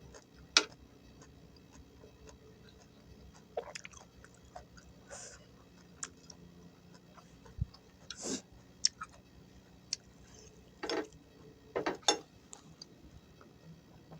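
Close-miked eating: chewing and crunching of vegetables in peanut sauce, with scattered short crunches and sharp clicks. The loudest click comes about half a second in.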